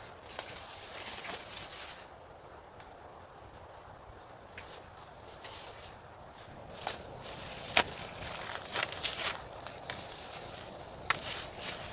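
An insect trilling steadily on one high note, which grows louder and pulses rapidly from about halfway through until near the end. A few sharp knocks sound now and then.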